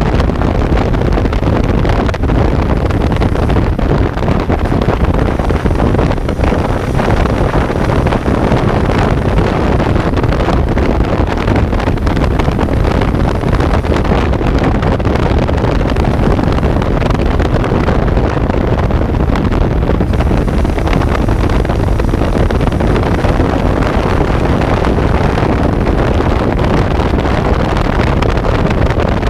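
Kawasaki Z900's inline-four engine running steadily while the motorcycle is ridden, mixed with heavy wind noise on the on-board microphone.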